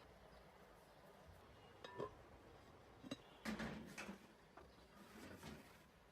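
Dishes being handled on a kitchen counter: a light clink that rings briefly about two seconds in, a knock a second later, then a short run of clattering and clinking.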